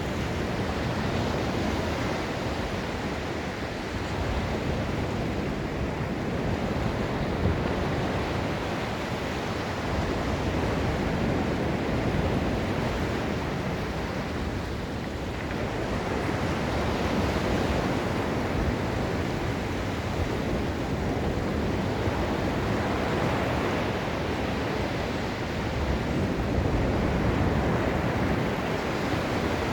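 Ocean surf washing onto a sandy beach: a continuous rush of waves that swells and eases every several seconds.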